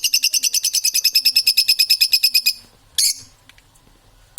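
A parrot giving a rapid, even, high-pitched trill of about fifteen pulses a second, which stops about two and a half seconds in. Two short shrill calls follow, one near three seconds and one at the end.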